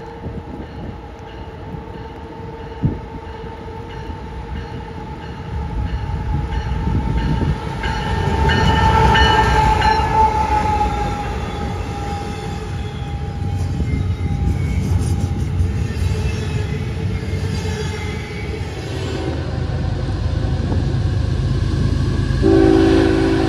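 A train passing with its locomotive horn sounding: the horn's pitch drops as it goes by about ten seconds in, and a heavy rumble of the train follows. Near the end a fresh horn blast of several notes at once begins.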